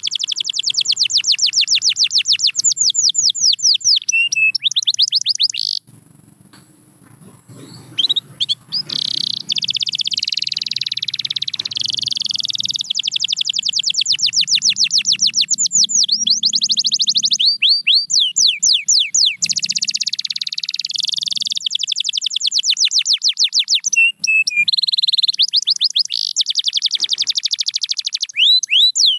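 Domestic canary singing a long song of fast repeated notes and rolling trills, breaking off for about two seconds about six seconds in before resuming.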